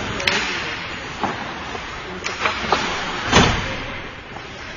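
Hockey game play: a few sharp knocks of stick and puck over steady rink noise, the loudest a little past three seconds in.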